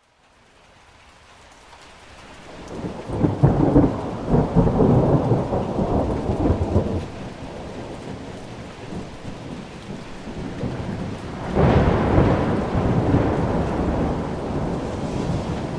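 Thunderstorm: steady rain that fades in from silence at the start, with two long rolls of thunder, the first building to a peak a few seconds in and the second breaking suddenly past the middle and rumbling away.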